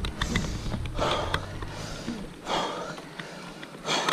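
A cyclist breathing hard and laboured on a steep climb: three loud, rasping breaths about a second and a half apart, the breathing of a rider close to exhaustion. Small clicks sound between the breaths.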